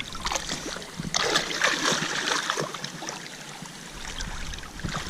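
Water splashing and trickling, with scattered small knocks.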